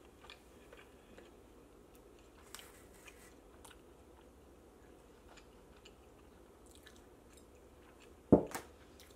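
Quiet chewing of pizza with small scattered mouth clicks. Near the end comes a sharp, loud double knock as a glass hot-sauce bottle is set down on the table.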